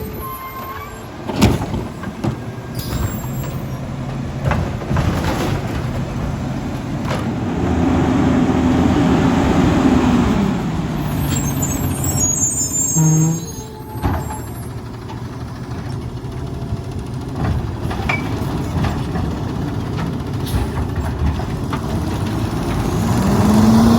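Autocar ACX garbage truck's diesel engine running and revving up, its pitch climbing and then dropping back as it pulls away, and rising again near the end. A short sharp air-brake release comes about a second and a half in.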